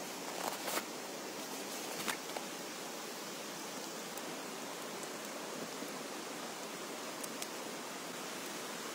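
Heavy rain falling in a steady hiss, with a few sharp ticks of nearby drops or small impacts.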